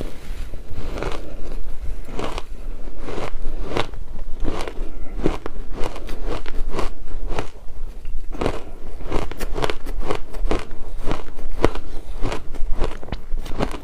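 Close-up crunching of frozen shaved ice being bitten and chewed: a quick, irregular run of crisp crunches, several a second.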